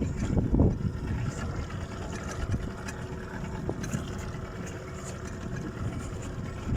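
Fishing boat's engine running steadily under a low rush of noise, with a short sharp knock at the very end.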